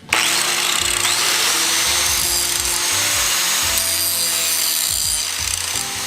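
Power grinder running against the steel of a motorcycle frame section, cleaning up the cut metal. It starts abruptly and grinds steadily.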